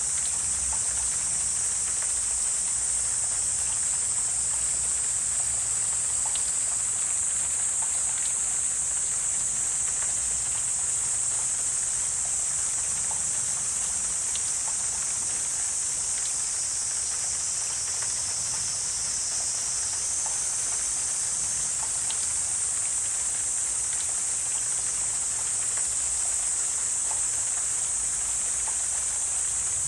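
Wetland ambience dominated by a steady, high-pitched insect chorus, with faint scattered ticks and clicks.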